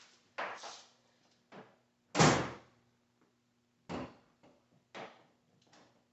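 A heavy slam about two seconds in, like a car door or hood being shut, with several lighter clunks and knocks around it over a faint steady hum.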